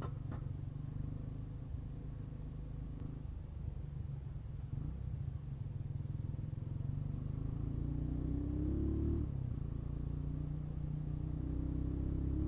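Motorcycle engine running under way, rising in pitch as it accelerates about seven seconds in, dropping suddenly as if at a gear change, then climbing again near the end. Underneath is a steady low rumble of wind on an action camera mic fitted with a deadcat windscreen.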